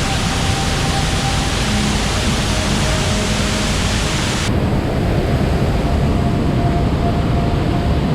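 Steady, loud rushing roar of a waterfall's falling water in heavy rain. About halfway through the hiss suddenly loses its top and sounds duller.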